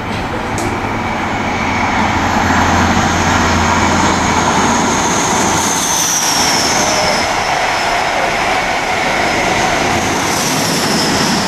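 East Midlands Trains HST (InterCity 125) passing through the station at speed: a loud steady rush of wheels and diesel engine noise. A high whine falls in pitch about six seconds in and again near the end.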